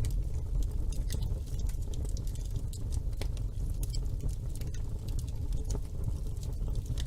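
Wood fire burning in a fireplace: a steady low rumble of flames with irregular crackles and small pops throughout.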